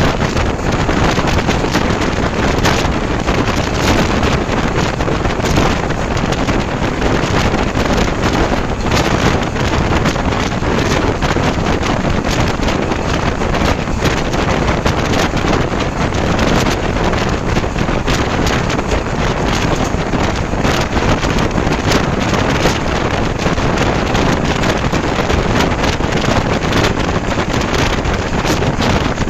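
A passenger train running steadily, heard from aboard, with a constant rush of wind buffeting the microphone and many small rapid clicks and rattles throughout.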